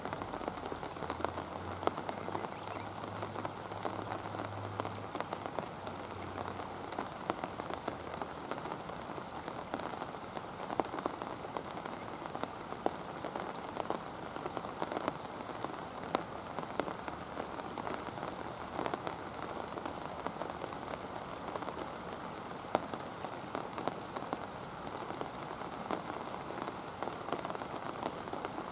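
Steady rain falling, a dense patter of drops with many small sharp taps. A faint low hum runs under it for the first several seconds.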